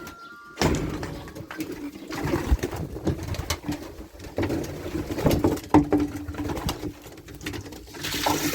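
Domestic pigeons cooing, low repeated coos with scattered light taps and clicks.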